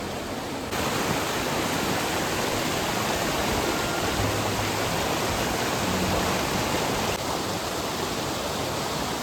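Mountain stream rushing, a steady even hiss of flowing water. It steps up a little just under a second in and eases slightly about seven seconds in.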